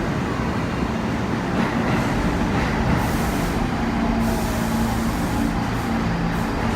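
New York City subway train in motion: a steady rumble of the cars running on the rails, with a low steady hum under it.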